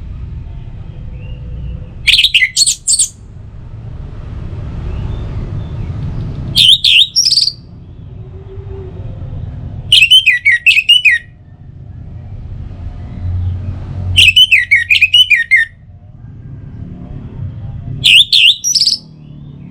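Orange-headed thrush (anis merah) singing, with five short, loud, rapidly warbling high phrases about four seconds apart. A low rumble of background noise fills the gaps between phrases.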